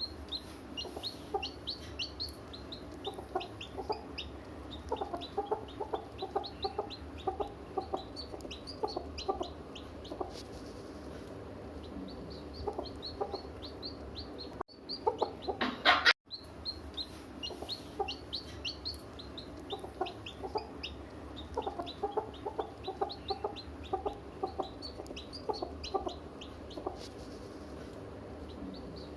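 Chickens clucking steadily, with many short high peeps from chicks over the hens' lower clucks, and one louder squawk about halfway through.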